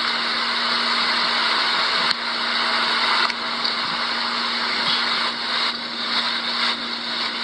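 Steady rushing noise with a constant low hum underneath, briefly broken about two seconds in and again a second later.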